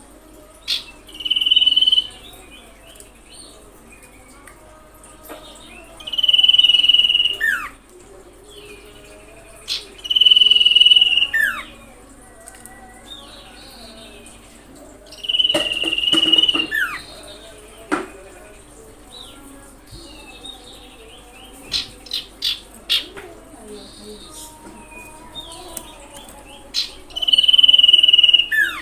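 Common iora calling: five long, steady high whistles, each about a second long and ending in a quick falling note, repeated every few seconds. Softer chirps come between them, with a few sharp ticks past the middle.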